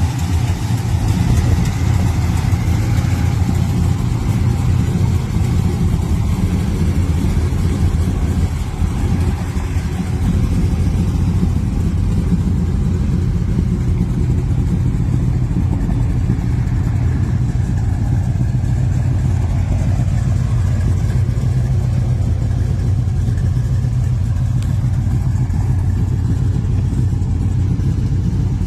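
Chevrolet 454 big-block V8 in a 1972 Chevelle, running steadily.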